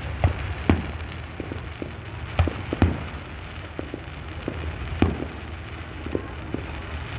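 Fireworks going off: irregular booms and cracks, a handful of loud reports among many smaller pops, over a steady low rumble.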